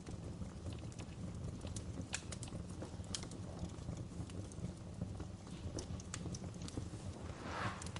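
Wood fire crackling in a fireplace: irregular sharp pops and snaps over a steady low rumble, with a brief hiss near the end.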